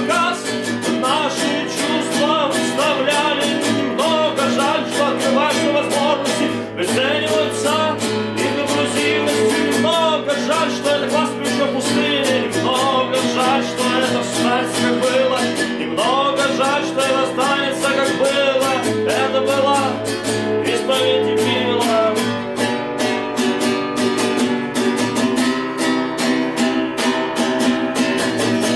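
Acoustic guitar strummed in a steady rhythm, with a sung melody over it.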